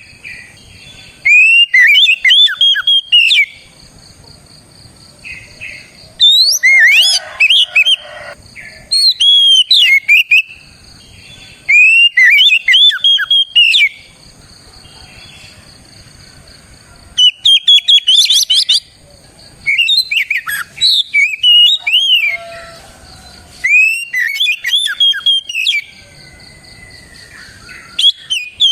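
Oriental magpie-robin (kacer) singing in a full, vigorous song: about eight phrases of rapid, swooping whistles and chirps, each lasting one to two seconds, with short pauses between.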